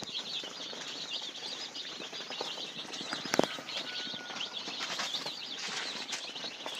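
A flock of chicks peeping together in a continuous chatter of short, high chirps: the contented sound of chicks whose environment is comfortable, with no sign of a problem. A single sharp knock about three and a half seconds in.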